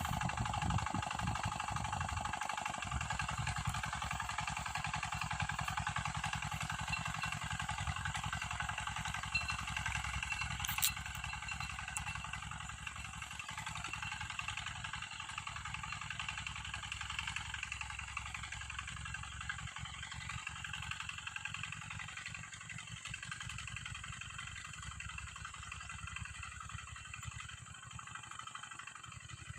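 Small tractor's engine running steadily as it pulls a cultivator, growing fainter toward the end. There is one brief clack about eleven seconds in.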